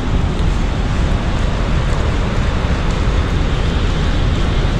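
Monsoon rain falling steadily: a loud, even hiss with a low rumble underneath.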